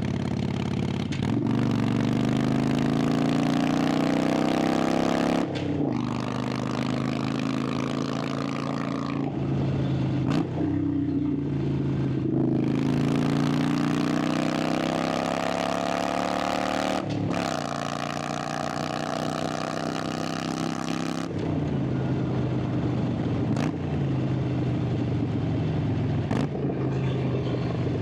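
Harley-Davidson Sportster 883's air-cooled V-twin pulling hard through the gears. The engine note rises in pitch several times, each climb ending in a short drop at an upshift. About three-quarters of the way through it settles to a lower, steadier note.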